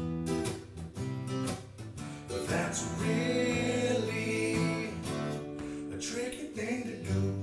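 Acoustic guitar strumming chords, the instrumental accompaniment of a song.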